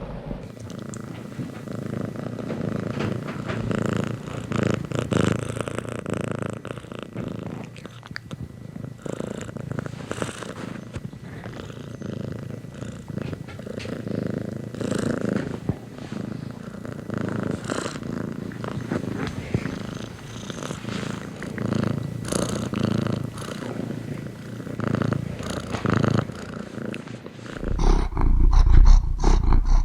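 Domestic cat purring steadily, the purr swelling and fading with its breaths. Near the end a louder, deeper rumble takes over.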